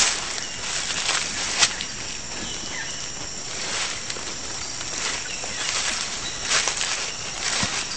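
Footsteps crunching irregularly through dry leaves and forest undergrowth, over a steady high insect drone.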